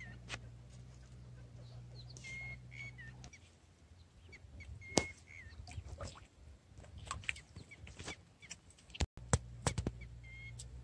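A bird calling a short whistled note four times, with scattered sharp clicks and ticks in between over a low steady hum.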